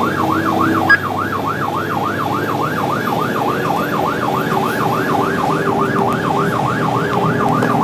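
Fire truck siren in a fast yelp, rising and falling about three and a half times a second, over the truck's engine and road noise, with a short click about a second in.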